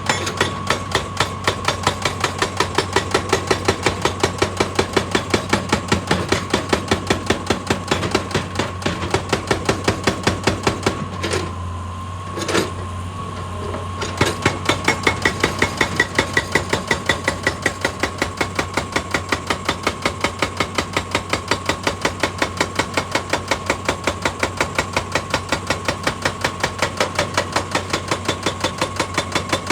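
Excavator-mounted hydraulic rock breaker hammering rock in a fast, even rhythm of about three blows a second over the machine's engine running. The blows stop for a few seconds partway through, with a couple of single clanks, then start again.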